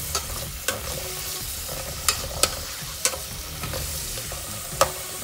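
Chopped onion, green chili and coriander frying and sizzling in a stainless steel pot as they are stirred, with several sharp clinks of the utensil against the pot.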